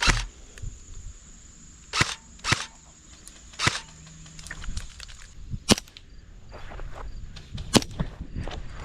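Airsoft guns firing single shots: about six sharp pops at irregular intervals, with fainter clicks between them.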